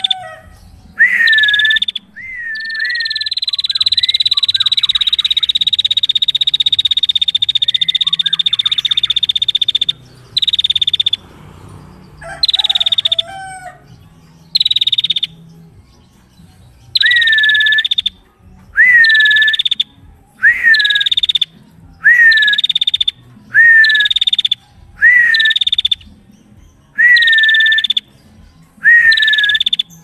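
Female prenjak calling loudly and persistently. A long, fast buzzing trill runs for about seven seconds a few seconds in, and sharp hooked chirps repeat about once a second for the rest.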